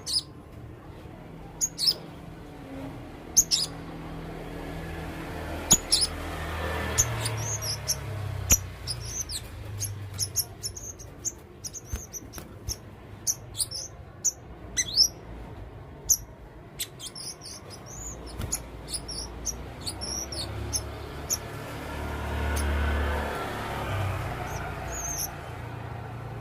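Male blue-crowned hanging parrot (serindit) giving short, sharp, very high-pitched chirps: single calls at first, then a dense run of rapid chirps in the middle and a few more near the end, over a low background rumble.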